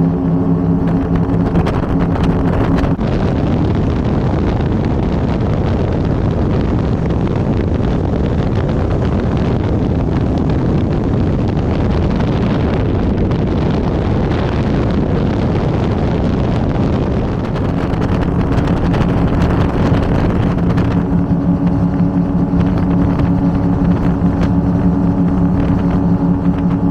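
Twin V8 engines of an Avanti 33 powerboat running under way with a steady, even engine note. About three seconds in, a rushing noise swamps the engine tone for roughly fifteen seconds. Then the steady engine note comes back and holds.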